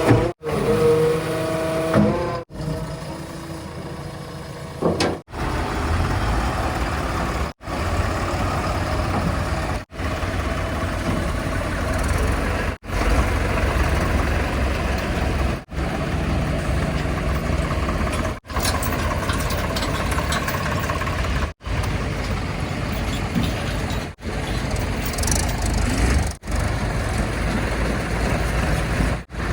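Heavy diesel machinery running with a steady low rumble, broken every two to three seconds by brief moments of silence. A few pitched tones sound in the first two seconds.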